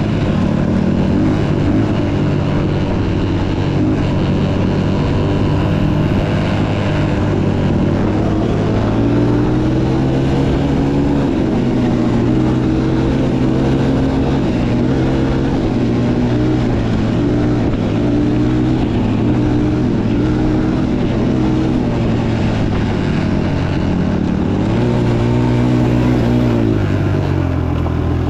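Motocross dirt bike engine running under changing throttle, its pitch repeatedly rising as it revs and dropping back.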